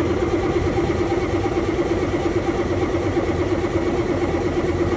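Detroit Diesel Series 60 engine cranking steadily on the starter without firing. It is a crank-no-start: a shorted number 2 injector is pulling the whole injector circuit to ground, so the injectors never fire.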